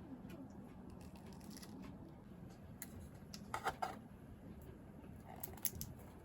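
Faint clicks and light rustling of small objects being handled, with a short cluster of sharper clicks about three and a half seconds in.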